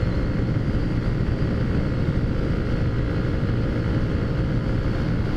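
Steady engine drone and road noise of a Taotao Zummer 50cc scooter cruising at an even speed, with no change in pitch.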